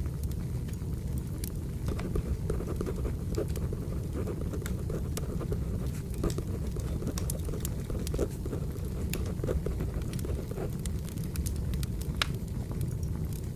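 Firewood burning with frequent sharp crackles and pops over a steady low rumble, mixed with pencil writing on paper.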